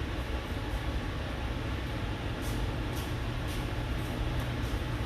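Steady low rumbling background noise, with a few faint soft swishes near the middle.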